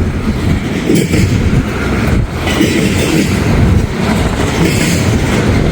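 Norfolk Southern freight train rolling past close by, with strong wind gusts buffeting the microphone.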